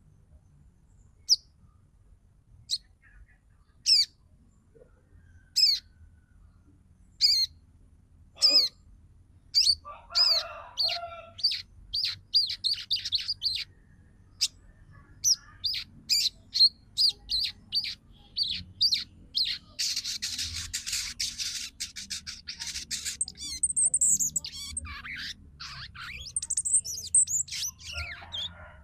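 Female sogon calling: single high chirps a second or two apart, then a fast, dense chattering run of chirps about a third of the way in. It is the female's call to males, used to rouse them to sing.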